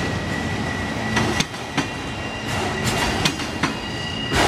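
Autorack freight cars rolling past with a steady rumble of steel wheels on rail. Several sharp clicks sound as wheels cross rail joints. A thin, steady high squeal from the wheels runs underneath.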